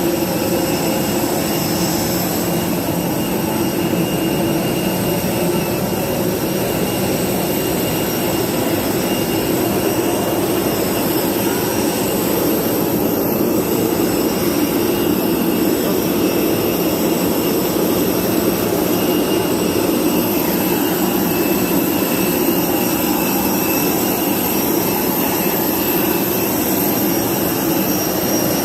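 Jet aircraft noise while boarding: a steady loud hum with a thin high whine over it, unchanging throughout.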